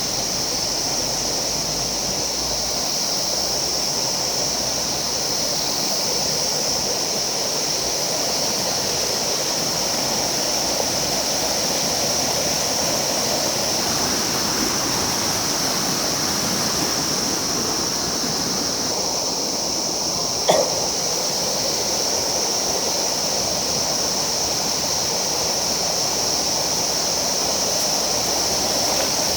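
River water rushing steadily over rocks, with a single short knock about two-thirds of the way through.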